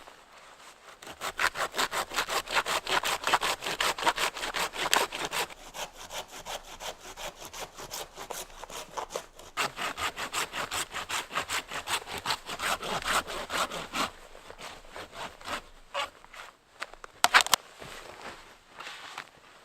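Hand saw cutting through wood in quick, even back-and-forth strokes, easing off briefly twice and stopping about 14 seconds in. A couple of sharp knocks come near the end, the loudest moment.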